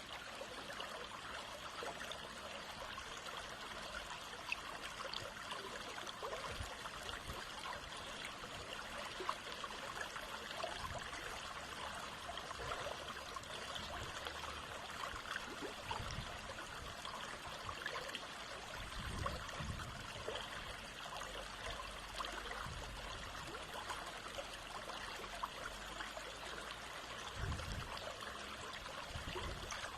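Water of a small stream running and trickling steadily, a continuous rushing splash with fine crackles. A few brief low rumbles about halfway through and near the end.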